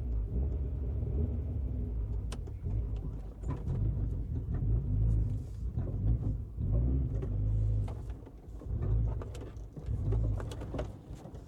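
2001 Honda CR-V's B20 2.0-litre four-cylinder engine running rough, its revs swelling and dropping again and again as the throttle is blipped to keep it alive: the engine will not hold an idle on its own.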